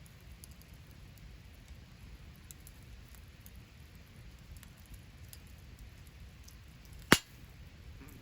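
Campfire burning: a steady low hiss with faint scattered crackles, and one sharp, loud pop about seven seconds in.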